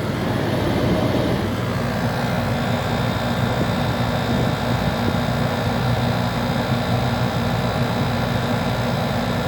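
A portable air conditioner running, its compressor humming steadily under the rushing of its fan.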